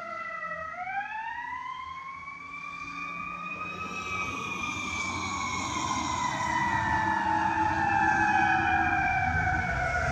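Fire truck siren on a slow wail: the pitch dips briefly, climbs for about three seconds, then falls slowly while growing louder, with the truck's engine and road noise rising underneath.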